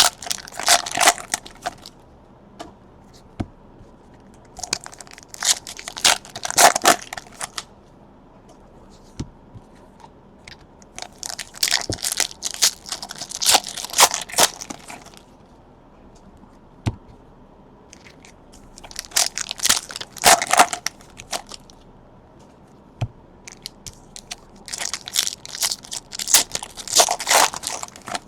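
Plastic wrappers of trading card packs being torn open and crinkled, in five separate bursts of crackling about every six seconds.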